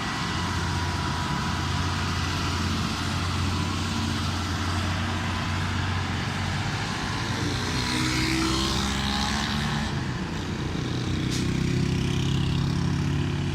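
Hino truck's diesel engine running steadily under way, with road noise and a brief rising engine note about eight seconds in.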